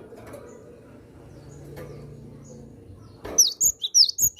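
Cinereous tit (gelatik batu) singing. Faint scattered chirps at first, then about three seconds in a loud, rapid run of sharp, high, falling whistled notes, several a second.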